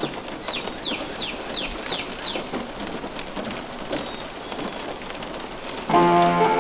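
Steady rain, heard as an even hiss. About half a second in comes a quick run of six high chirps, each falling in pitch, and music starts again near the end.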